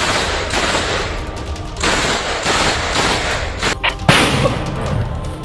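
Rapid, dense gunfire: runs of sharp cracks and bangs with short breaks, and the loudest burst about four seconds in.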